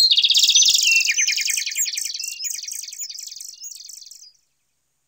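Small bird twittering: a rapid run of high chirps that gradually fades and stops about four seconds in.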